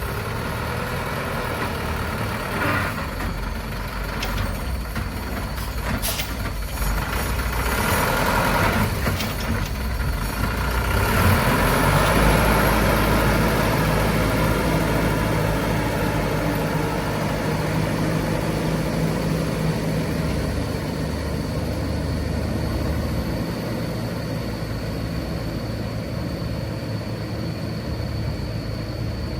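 Heavy vehicle engine running steadily. It swells louder from about eight to twelve seconds in, then settles into a steady low drone.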